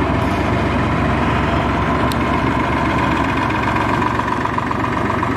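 Diesel engine of a canal narrowboat running steadily as it passes: a continuous low thrum with a steady hum above it that grows a little stronger in the second half.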